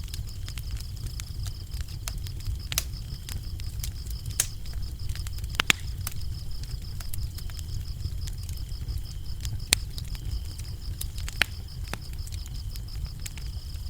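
Wood fire crackling, with irregular sharp pops over a low steady rumble of the flames. Crickets chirp throughout in a high, even, pulsing trill.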